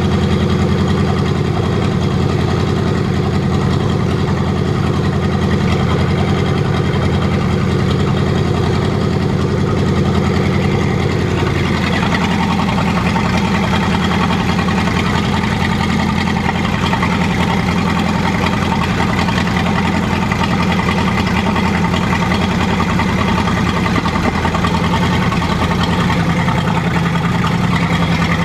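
ZIL-131 truck's V8 petrol engine running steadily on a test stand, its note shifting slightly about twelve seconds in.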